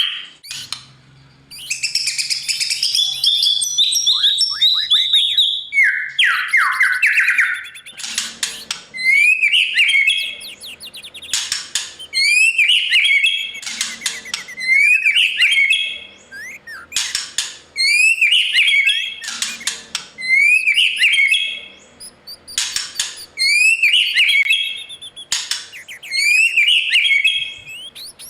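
White-rumped shama singing loud, varied whistled phrases. From about eight seconds in it settles into one rising phrase with high chirps, repeated about every two seconds.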